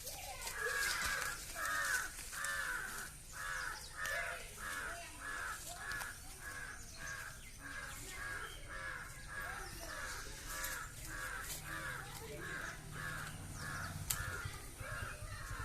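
A bird calling over and over in a steady series, about two short calls a second, with fainter calls underneath.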